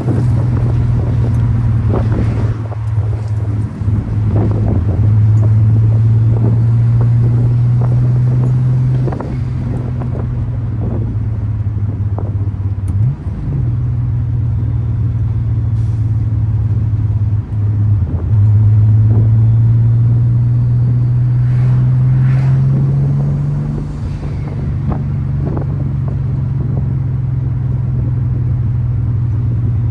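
Turbocharged VR6 engine and exhaust droning steadily under way, with brief dips in the tone about 13 and 17 seconds in and a slow rise in pitch shortly after.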